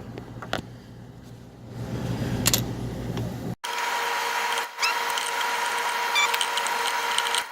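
Phillips screwdriver backing small screws out of a metal diffuser plate: small metal clicks and scraping. About three and a half seconds in the sound cuts abruptly to a louder stretch with a steady hum under the clicks.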